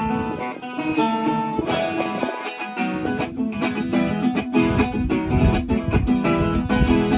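Viola caipira being played, a run of plucked and strummed notes; lower, fuller notes join about two-thirds of the way through.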